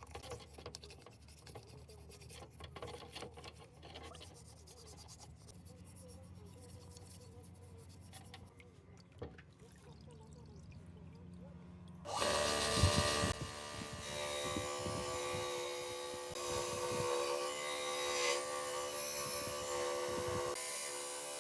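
Workshop tool sounds on engine parts: light scraping and rubbing with small clicks, then about twelve seconds in a power tool starts and runs with a steady whine.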